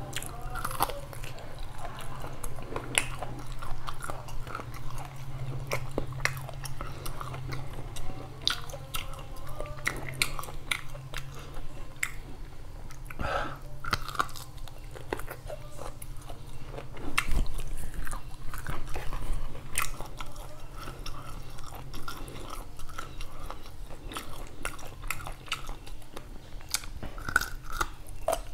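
Close-up chewing and biting of a mouthful of beef curry and rice eaten by hand, with many short wet clicks of the mouth.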